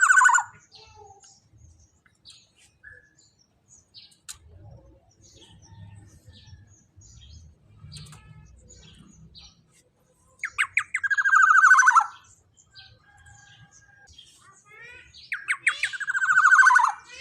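Black-naped oriole giving loud, harsh rasping calls that fall in pitch, each about a second and a half long. One is ending at the start, two more come about ten and fifteen seconds in, with faint short chirps between them.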